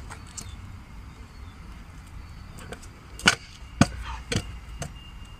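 Skateboard deck popped and slapping down on flat ground: a few sharp wooden clacks a little past halfway, the loudest two about half a second apart.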